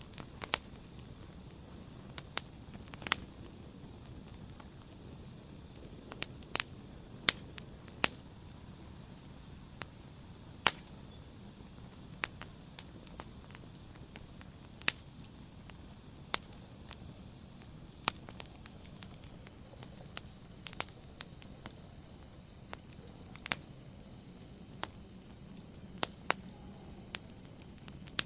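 Fire in a fireplace crackling: sharp pops and snaps at irregular intervals over a low, steady hiss.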